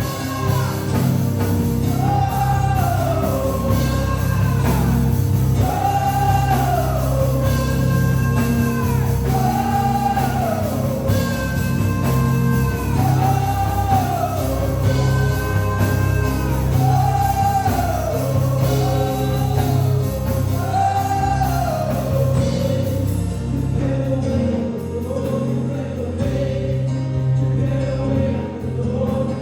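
Gospel worship music: a voice sings a short phrase that rises and falls about every two seconds over a sustained band accompaniment.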